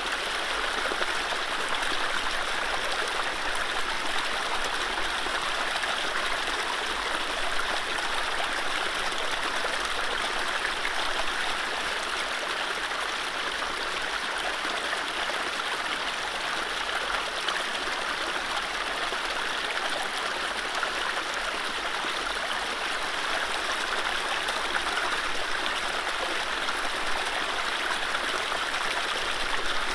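Mountain stream flowing over low rapids: a steady rush of water with gurgling and splashing and no birdsong.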